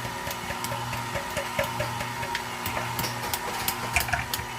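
KitchenAid stand mixer running with its ice cream maker bowl, churning ice cream with chocolate chips mixed in: a steady motor hum with regular clicking about three times a second.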